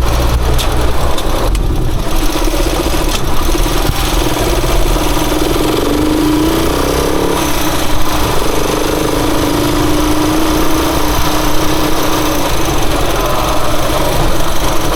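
Rusi Chariot 175 motorcycle engine running steadily while under way.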